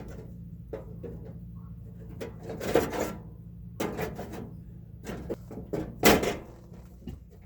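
A few sudden knocks and clatters, like a door or drawer being handled, the loudest about six seconds in, over a steady low hum.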